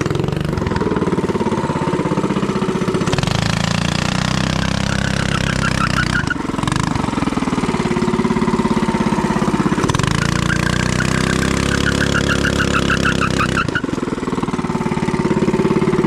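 A mini bike's small engine running and being revved up and down several times during a burnout attempt. A wavering high-pitched squeal comes in twice, briefly about five seconds in and for a few seconds in the second half.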